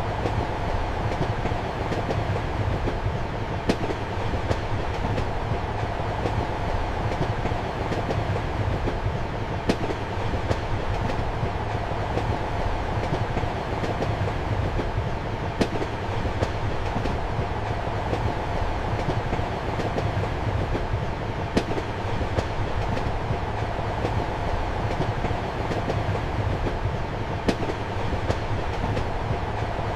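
Passenger train running along the rails, heard from inside a compartment: a steady rumble and hum, with a sharp wheel click over a rail joint about every six seconds.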